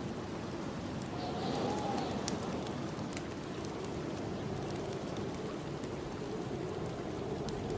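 Snowstorm wind blowing steadily, with a brief rising and falling whistle about a second in, over a wood fire crackling in scattered sharp pops.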